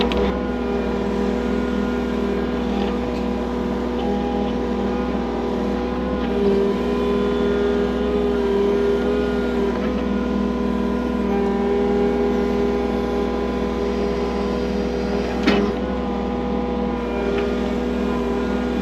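Mini excavator engine running steadily, with a sharp knock about fifteen seconds in.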